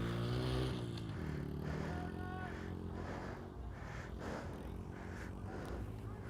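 Kawasaki Ninja 300 parallel-twin motorcycle engine running under way: its pitch rises, drops about a second in, then holds steady.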